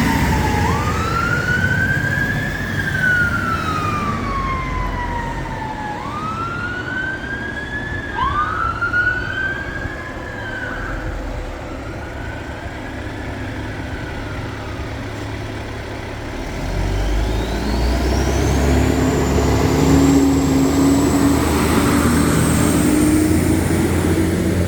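Fire engine sirens on wail: slow rising and falling sweeps from more than one siren overlapping, fading out about halfway through. Then a fire engine's engine runs loud and close near the end, with a slowly rising whine.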